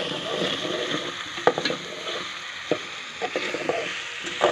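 Meat, chopped tomatoes and spices frying in an aluminium pot with a steady sizzle, at the bhuna stage of browning the meat in masala. A steel spoon stirs through it, with a few sharp clinks against the pot.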